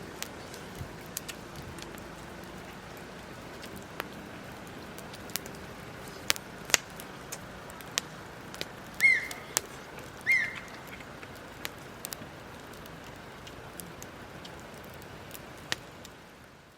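Wood campfire crackling, with scattered sharp pops over a steady hiss. Two short high chirps cut in near the middle.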